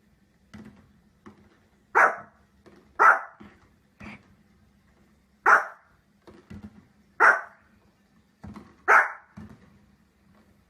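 A dog barking: five loud single barks, one to two seconds apart, with fainter short sounds between them.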